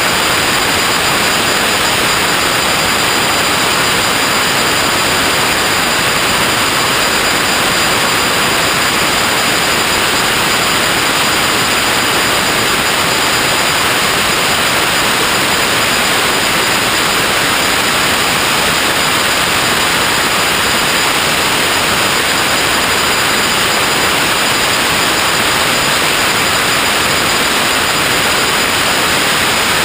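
Steady, unchanging hiss like static, loud and even throughout, with a faint thin high whistle laid over it.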